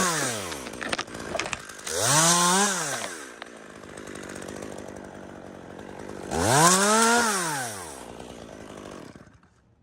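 Two-stroke chainsaw revved up and let back down in short bursts, about two full revs, idling between them. It drops away near the end.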